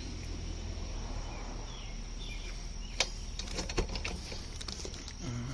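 A few sharp clicks and knocks, about three and four seconds in, from the assembled aluminium chainsaw mill being handled, over a steady low hum and a faint high whine.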